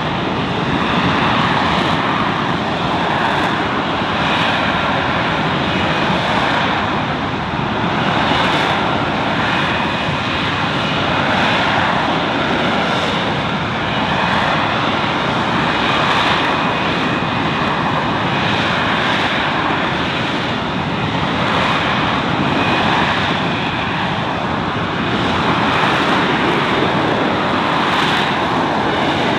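F-35B Lightning II's F135 jet engine running loud and steady, a continuous roar with a faint high whine, swelling and easing every few seconds.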